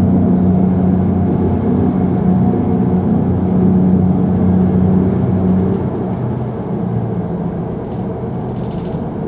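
CrossCountry Class 220 Voyager diesel multiple unit running, heard from the vestibule: a steady low drone from the underfloor diesel engine and running gear, with a faint high whine that dies away about halfway. The sound drops a little about six seconds in.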